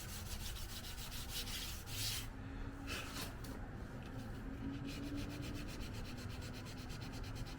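Sandpaper rubbed by hand over the paint of a car panel in quick, even back-and-forth strokes, flattening out pits and runs. The strokes ease off for a couple of seconds a little after two seconds in, then pick up again.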